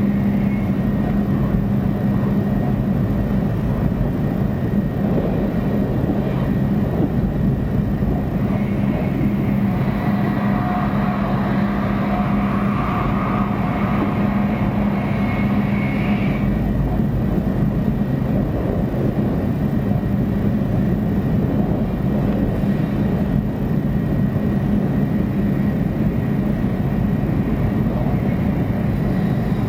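Cabin noise of a 500 series Shinkansen train running: a steady rumble with a low hum. For several seconds, from about nine seconds in, a brighter hiss with a faint whine rises over it.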